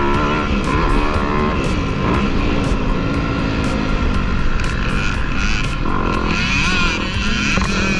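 Dirt bike engines running on a motocross track, their pitch rising and falling repeatedly as the throttle is worked.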